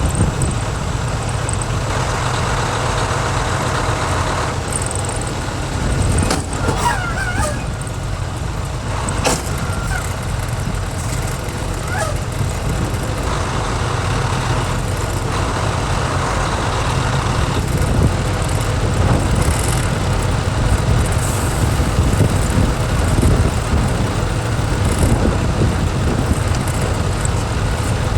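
Semi-truck driving, heard from inside the cab: a steady low engine and road rumble, with a few sharp clicks and stretches of brighter hiss.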